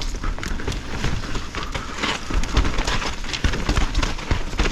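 Mountain bike rolling fast over a wet, rooty trail: a steady rush of tyre noise on dirt, broken by many sharp knocks and rattles as the bike hits roots and rocks.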